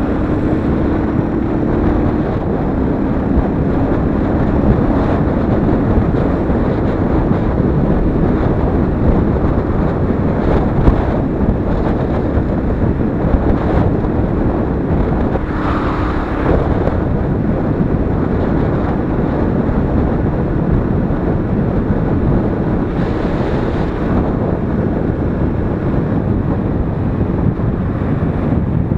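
Royal Enfield Interceptor 650's 648 cc parallel-twin engine running under way, buried in heavy wind rush over the microphone. The engine note comes through clearly in the first couple of seconds and briefly again about halfway through.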